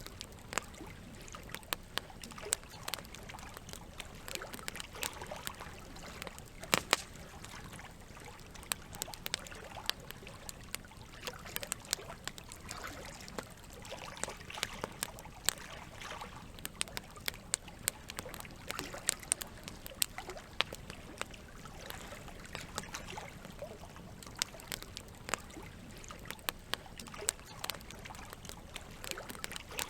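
Wood campfire crackling, with frequent irregular pops and snaps, one sharper pop about seven seconds in, over steady trickling water.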